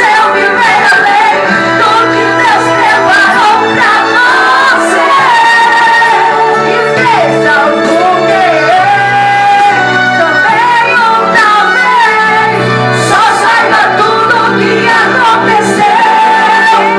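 Pentecostal worship music played loud: voices singing a melody over instrumental accompaniment with a sustained bass line.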